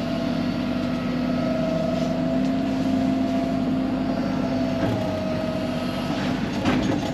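Excavator's diesel engine running steadily with a held drone, working in the dam; a few sharp knocks come near the end.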